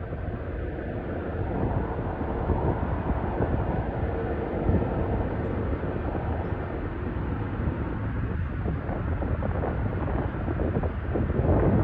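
Jet engines of a British Airways Airbus A380 rumbling steadily, with a faint steady whine and wind buffeting the microphone.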